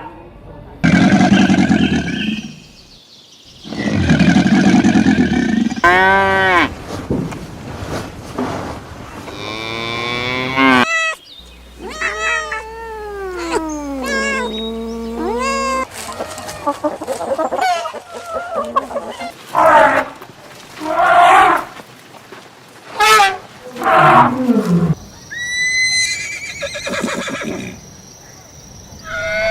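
A string of different farm animal calls cut one after another, cattle mooing among them.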